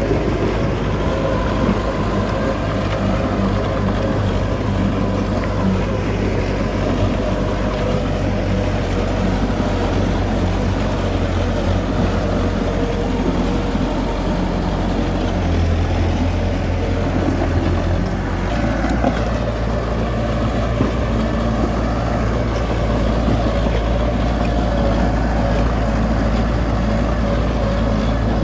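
Heavy diesel engine running steadily. Its note changes between about fifteen and eighteen seconds in, then settles again.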